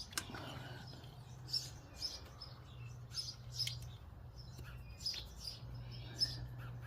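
A small bird chirping: short high chirps repeated in small irregular groups, over a low steady hum, with a single click near the start.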